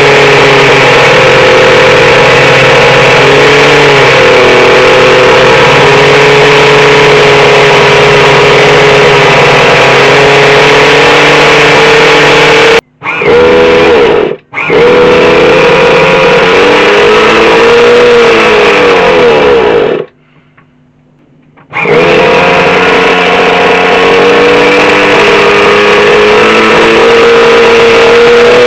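Small nitro glow engine running at high revs: a loud, steady high-pitched buzz whose pitch wavers and glides up and down. It breaks off abruptly twice, briefly, about halfway through, and again for about two seconds later on, then carries on.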